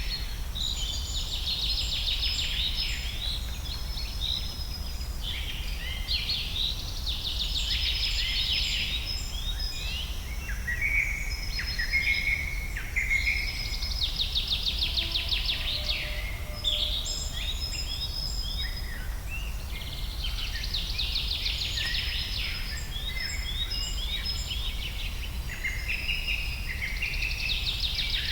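Several songbirds singing at once: a dense, continuous chorus of overlapping chirps, whistled notes and fast trills. A low steady rumble runs beneath it.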